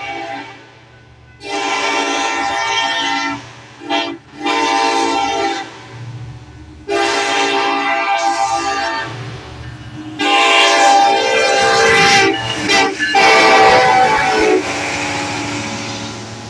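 Diesel locomotive air horn sounding a series of blasts, mostly long with one short blast about four seconds in, each a chord of several notes, over the low rumble of the locomotive's engine. Near the end the horn stops and the train's running noise carries on.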